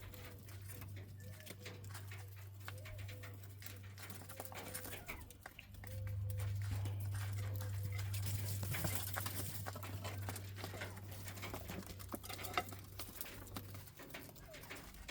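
Bobwhite quail giving soft, short repeated calls in the first half, with many small clicks of pecking and scratching throughout. Under them is a steady low hum that grows louder about six seconds in and fades near the end.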